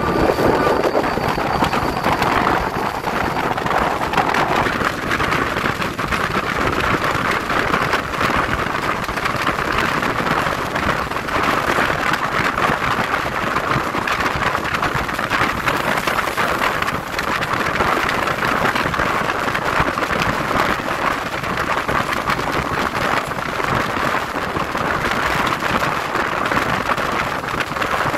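Train running at speed, heard from an open coach window: a steady rushing of wind and wheels on the rails. A thin, high wheel squeal fades out about two seconds in.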